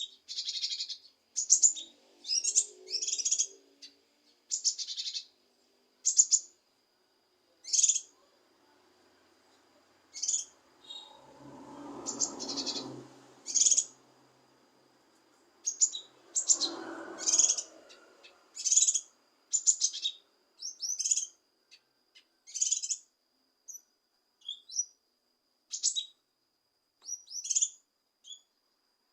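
Cucak kinoi singing: a run of short, sharp, high chirps and quick phrases with brief gaps between them, over a faint steady high whine. Twice near the middle a lower, rougher sound comes in under the chirps.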